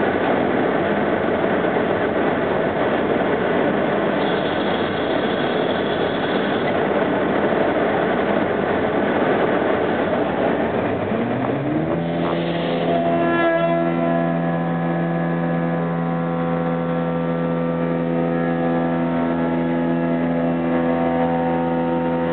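CNC machine running: a dense noisy rush for about the first half, then about twelve seconds in a rising whine that settles into a steady hum of several even tones.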